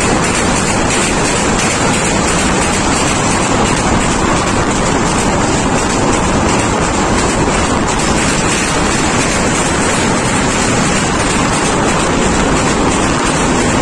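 Titas Commuter passenger train running over a steel truss bridge, heard from an open carriage door: a loud, steady din of wheels on the rails and the moving carriage.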